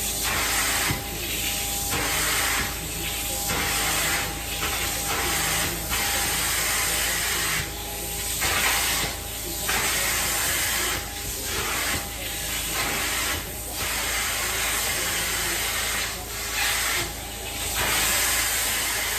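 Carpet-cleaning extraction wand spraying and vacuuming in repeated strokes, a loud hiss that surges and drops about every second or so, over the steady hum of the cleaning machine.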